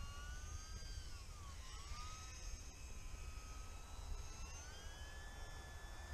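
Faint whine of a small brushless electric RC biplane's motor and propeller in flight, its pitch dipping about a second and a half in, then climbing about four and a half seconds in and holding. Strong wind rumbles on the microphone underneath.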